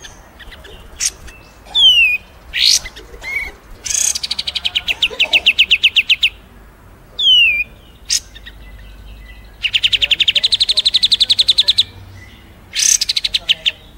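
Recorded small songbirds calling for bird-mastering: sharp high chips, short whistles sliding down in pitch, and twice a fast, even trill of about eight notes a second lasting around two seconds.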